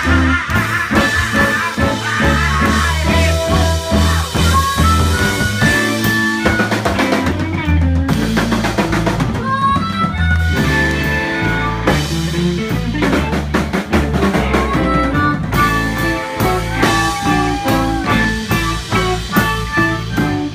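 Live blues band playing an instrumental passage: drum kit with rimshots over low bass notes, with guitar lines on top.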